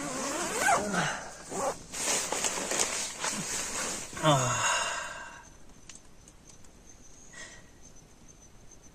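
Rustling of bedding as a person settles down, with breathy vocal sounds ending in a falling sigh about four seconds in. Faint steady chirping of night crickets then carries on alone.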